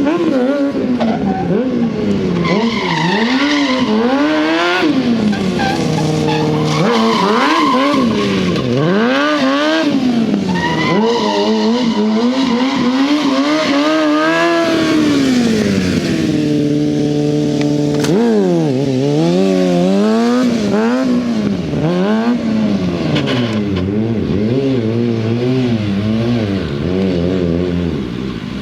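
Kawasaki ZX-6R sportbike's inline-four engine revving up and down again and again as it is ridden hard, with the revs held steady for a few seconds about halfway through.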